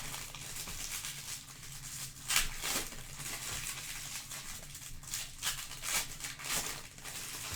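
Light, irregular rustling and clicking handling noises, with a sharper click about two seconds in, over a faint low hum.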